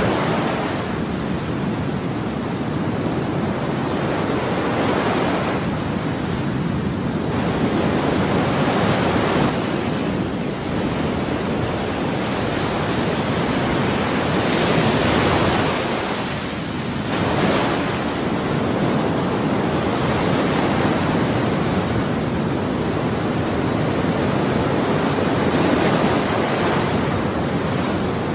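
Ocean waves breaking and washing up on shore, a continuous rush of surf that swells every few seconds as each wave breaks.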